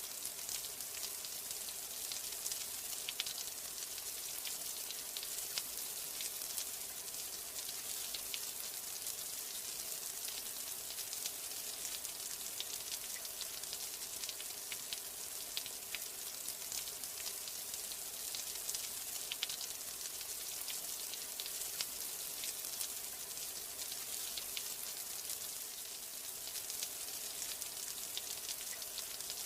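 Steady rain: an even hiss of falling rain dotted with many small, sharp drop ticks.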